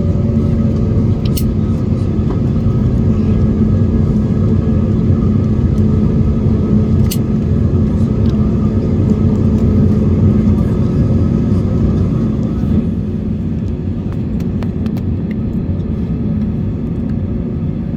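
Airbus A321neo running with a steady engine and airflow rumble heard from inside the cabin, with a low hum over it; the sound drops a little about 13 seconds in.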